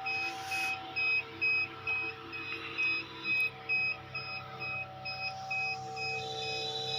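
Incubator's electronic controller beeping steadily, about two beeps a second, over the steady hum of the machine's fan.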